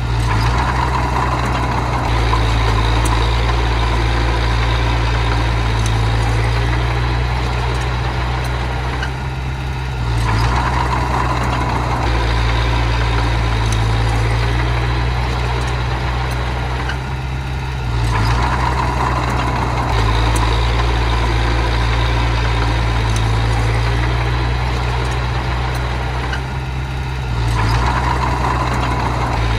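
Small bulldozer's diesel engine running steadily under load. It swells louder about every eight seconds as the blade pushes soil.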